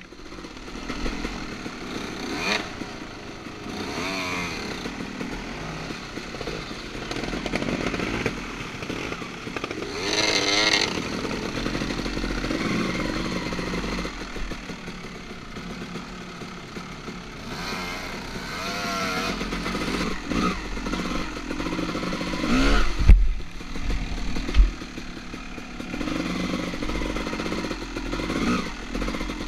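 Two-stroke dirt bike engines revving up and down, with some clatter and two loud knocks about three-quarters of the way in.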